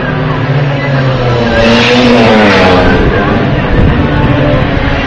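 Classic two-stroke racing motorcycles at full throttle, several engines at different pitches at once. One passes close about two seconds in, getting louder and then dropping in pitch as it goes by.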